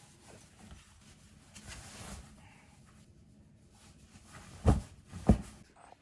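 Faint rustling, then two dull knocks about half a second apart near the end, as of objects being handled and set down.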